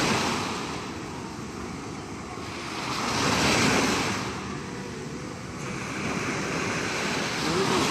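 Sea surf washing ashore in slow swells, loudest at the start, again about three and a half seconds in, and rising once more near the end. Wind buffets the microphone.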